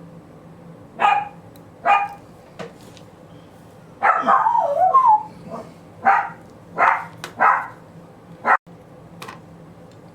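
A dog barking: a string of short barks, with a longer wavering yowl about four seconds in.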